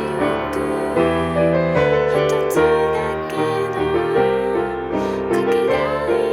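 Piano playing a karaoke accompaniment to a song, with chords and a moving bass line and no sung melody.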